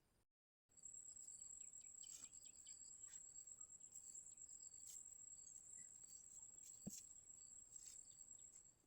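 Faint, steady high-pitched trilling of night insects such as crickets, with scattered short chirps and clicks. One soft knock comes about seven seconds in.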